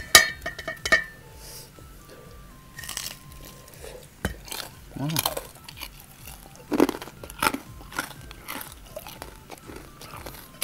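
Close-up eating sounds: crispy fried chicken being bitten and chewed, with crackly crunches and wet chewing at an irregular pace. A few sharp clicks come in the first second as the chicken is dipped into a bowl of chili sauce.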